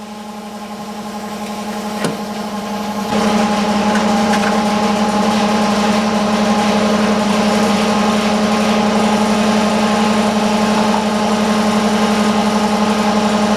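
A machine's motor running steadily with a constant hum. It swells over the first few seconds, jumps louder about three seconds in, then holds even.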